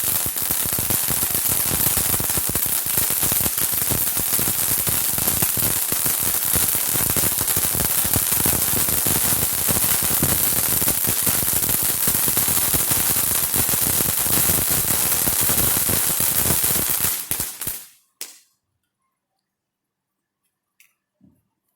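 Fireworks going off in a rapid, continuous crackle of sharp pops, like a long string of firecrackers, which stops abruptly near the end.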